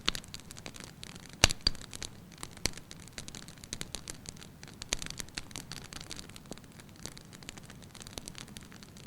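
Dry willow-wood campfire burning hard, crackling with irregular sharp pops, the loudest about one and a half seconds in.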